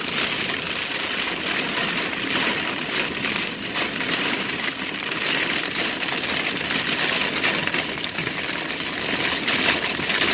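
Heavy rain pelting a car's roof and windshield, heard from inside the cabin as a dense, steady patter, with the car's engine running underneath.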